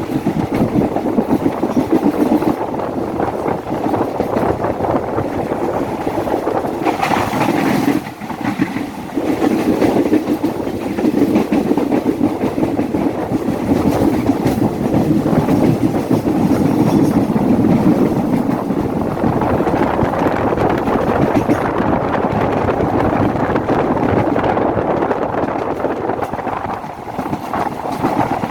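A train running past on a curve, its wheels clattering steadily over the rail joints.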